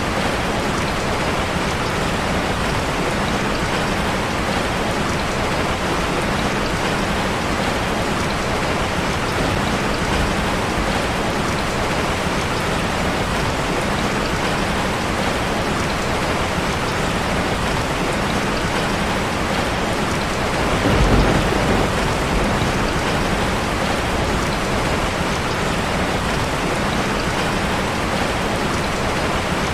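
Steady rain drumming on a metal roof, an even dense patter. About two-thirds of the way through, a brief low rumble swells up under the rain and fades.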